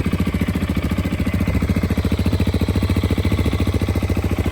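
The single-cylinder 690 cc engine of a KTM 690 Enduro R motorcycle idles steadily right after starting, with an even, rapid thump of firing pulses.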